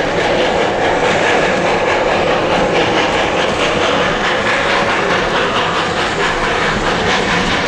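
Train running along the track, heard from aboard a passenger car: a steady rumble of the wheels on the rails with light clatter.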